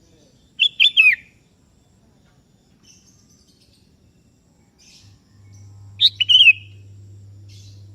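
Sooty-headed bulbul (kutilang) singing loud, short phrases of a few quick sweeping notes, twice, about five seconds apart. A steady low hum comes in about five seconds in.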